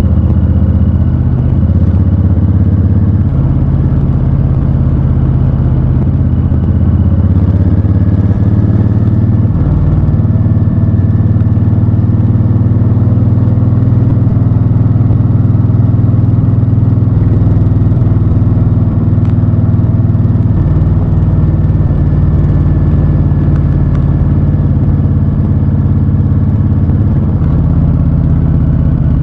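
Honda Fury's 1312 cc V-twin engine running on the move, loud and steady. Its pitch steps up or down several times as the throttle and gears change.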